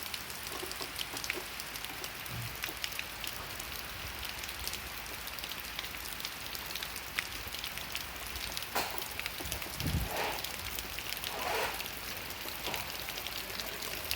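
Steady rain falling, an even hiss with many individual drops ticking, and a couple of brief louder swells in the second half.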